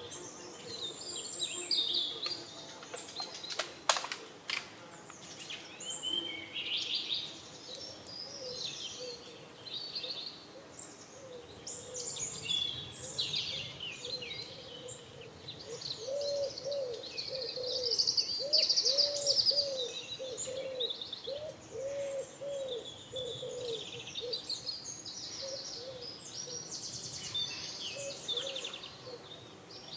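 Small birds chirping and twittering throughout, with a pigeon cooing in a run of low, evenly repeated notes from the middle onward. There is a single sharp click about four seconds in.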